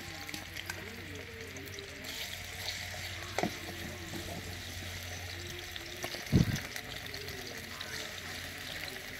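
Raw prawns frying gently in oil in a steel kadai over a wood fire, with a slotted steel spatula stirring and scraping against the pan. A single heavy knock comes about six seconds in.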